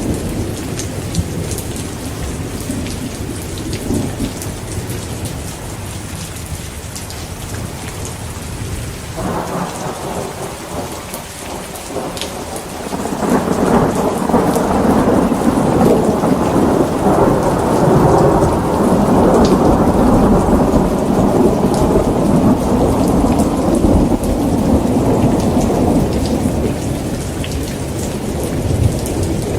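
Heavy rain falling steadily, with rolling thunder. A long, louder roll of thunder builds about a third of the way in, holds through the middle and fades near the end.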